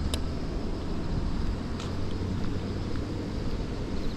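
Car moving along a road: a steady low rumble of engine and tyres, with faint insect chirps over it.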